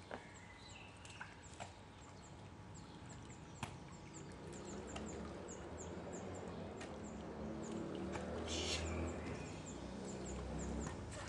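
Garden ambience: a bird chirping over and over in short, high notes, with a low hum that slowly grows louder and a brief hiss about nine seconds in.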